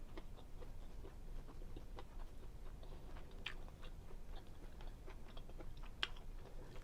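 A person chewing seafood linguine Alfredo: quiet, wet mouth clicks scattered throughout, with two sharper clicks about three and a half and six seconds in.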